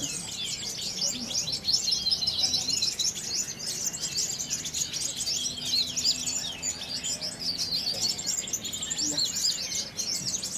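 Many caged songbirds singing at once in a contest chorus: a dense, unbroken stream of rapid high chirps, whistles and trills overlapping one another.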